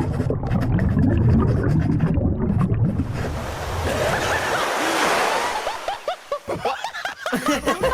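A dense rushing wash of noise, like surf, that swells and then gives way in the last two seconds to many short overlapping voices snickering and chattering.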